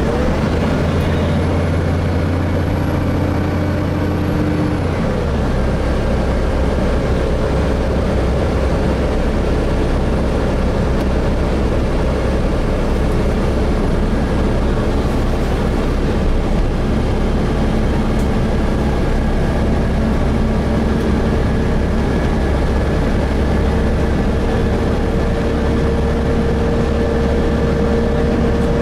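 Gillig Phantom transit bus with a Voith transmission, its engine and drivetrain droning steadily as heard from inside the passenger cabin while under way. The low engine note steps down about five seconds in, then holds steady.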